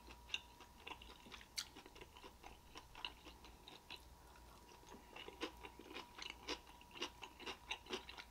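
A person chewing and biting food close to the microphone: faint wet mouth clicks and chews, coming more often in the second half.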